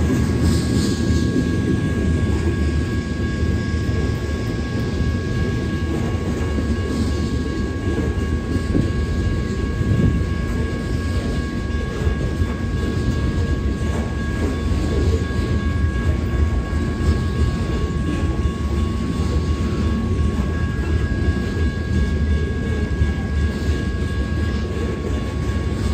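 Freight train of loaded covered hopper cars rolling past, wheels rumbling steadily on the rails, with a steady high tone running alongside.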